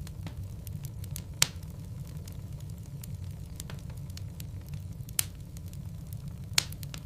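Logs burning in a fireplace: a steady low rumble of flames with scattered crackles and three sharp, loud pops, about a second and a half in, about five seconds in and near the end.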